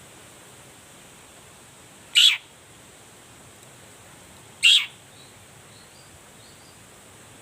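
Long-tailed shrike (cendet) giving two short, loud calls about two and a half seconds apart, each sweeping down in pitch, over a steady hiss. A few faint high chirps follow the second call.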